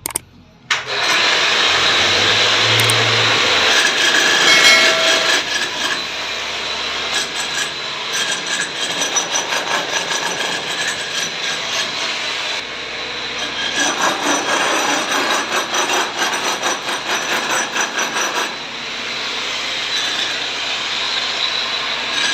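PVC drainage pipe being cut: a loud, continuous rasping saw noise that starts about a second in, with fast repeated strokes through most of it.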